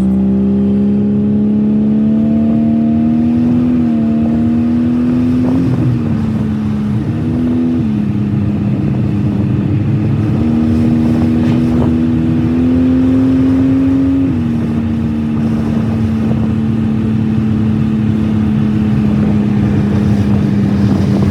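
Toyota Supra's engine under way, its note climbing gently and dropping back at several gear shifts, then holding steady at a cruise. The transmission is shifting decently but is near the end of its life.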